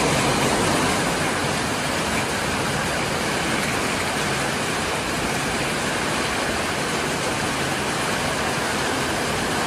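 Heavy rain pouring down in a rainstorm: a loud, steady hiss.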